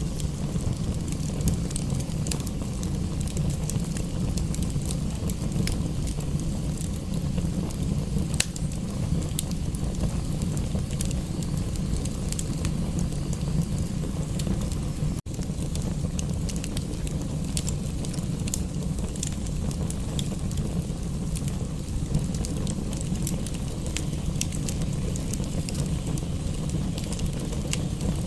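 Wood fire crackling in a fireplace: scattered sharp pops and snaps over a steady low rumble, with a brief dip in the sound about halfway through.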